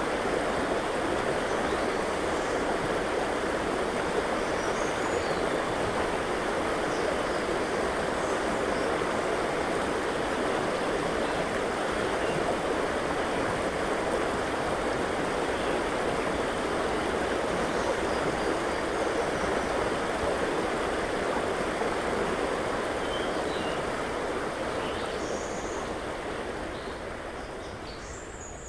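River water flowing steadily, with a few faint, scattered bird chirps high above it. The sound fades out over the last few seconds.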